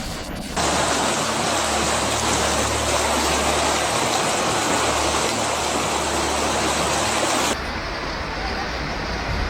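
Loud, steady rush of water, cutting off abruptly about seven and a half seconds in to a quieter, duller rushing.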